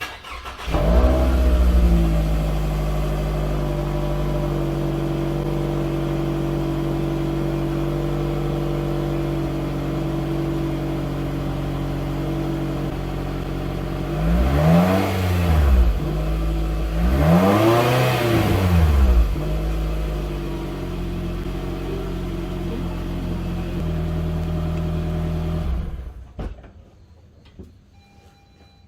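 Toyota Estima's 2.4-litre four-cylinder engine exhausting through an aftermarket muffler: it starts just after the beginning, settles to a steady idle, is revved twice in quick succession around the middle, then idles again and is switched off a few seconds before the end.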